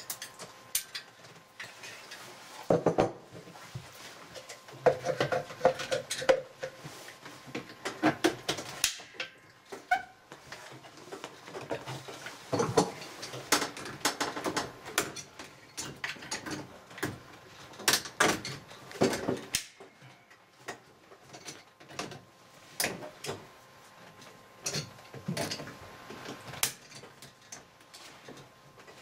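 Irregular knocks, clicks and clunks of hands and tools working on a washing machine's water pump and its hose clamps, loosening and handling plastic and metal parts.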